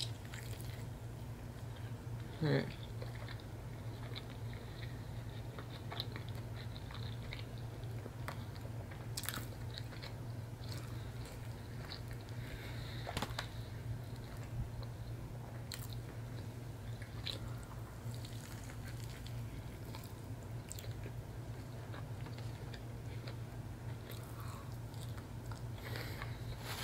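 Close-up eating: biting into and chewing a cajun catfish sandwich on a cauliflower bread thin, with scattered short mouth clicks, over a steady low hum.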